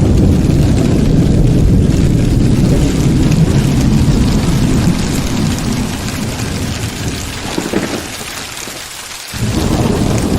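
Heavy rain with long, rolling thunder over a steady hiss of rain. The rumble dies down about eight seconds in, then a new roll comes in suddenly near the end.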